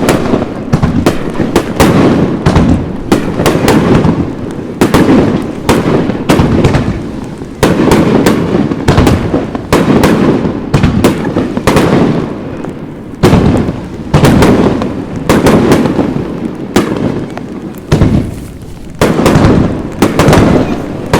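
Fireworks display: aerial shells bursting in quick, overlapping succession, a dense run of sharp bangs, each trailed by a rumbling echo.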